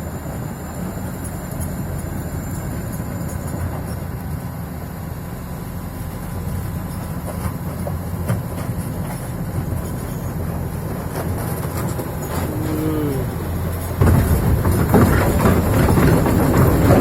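Diesel engine of a Hitachi EX470LC Zaxis excavator running with a steady low drone. It gets markedly louder about 14 seconds in as the engine works harder. A brief falling tone sounds just before.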